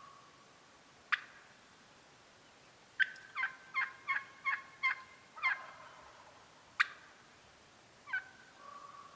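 Wild turkey hens yelping: a run of about seven two-note yelps, each breaking downward in pitch, with single sharp clucks about a second in and near seven seconds.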